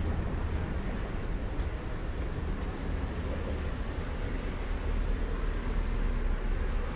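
Gusty wind buffeting the microphone, a steady low rumbling noise that swells a little near the end, ahead of an arriving thunderstorm.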